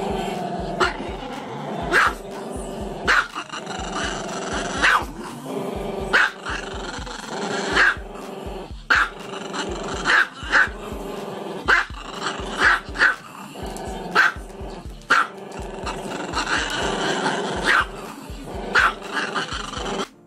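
A small black-and-tan dog with its head raised vocalising continuously in a growling howl, broken every second or so by short, sharp yips.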